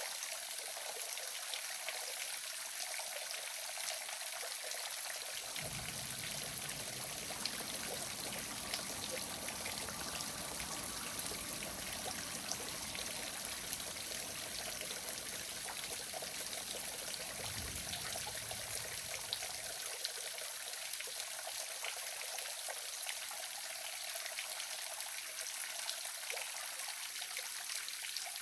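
Small waterfall splashing and pouring steadily, an even rushing hiss. A low rumble joins it from about five seconds in until about twenty seconds.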